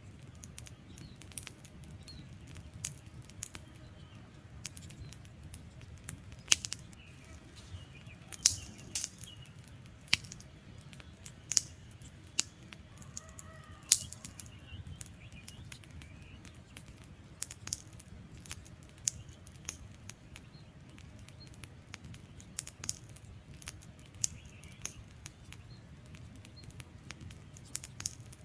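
Wood campfire burning with irregular, sharp crackles and pops over a low, steady rumble of flames; a few pops stand out louder. Faint bird chirps come and go behind it.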